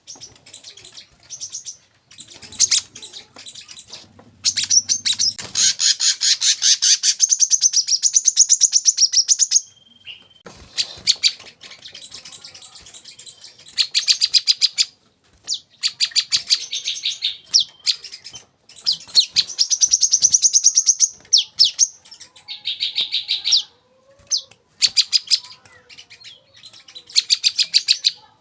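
Brown-throated sunbird (kolibri kelapa) singing its high, rapid chattering 'wiceh' song in long fast runs of several seconds each, broken by short pauses.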